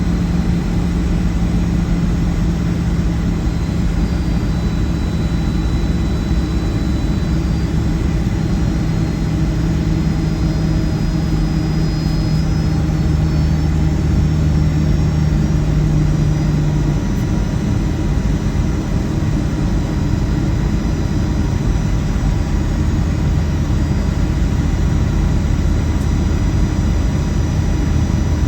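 Steady cabin noise inside a Boeing 757-200: engine and airflow drone with a low hum, one steady tone in it stopping about seventeen seconds in.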